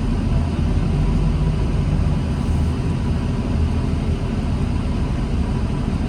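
Diesel engine and drivetrain of a 2009 New Flyer D40LFR transit bus running with a steady low rumble.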